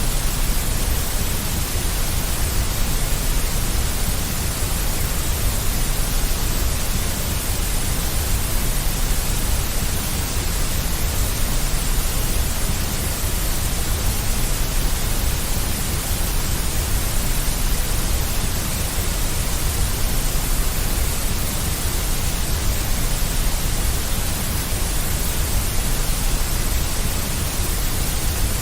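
Steady, unchanging synthetic white noise with a deep low end, played as a sleep sound for a colicky baby.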